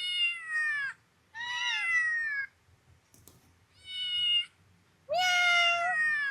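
Parrot imitating a cat's meow, four times, each call about a second long and falling in pitch.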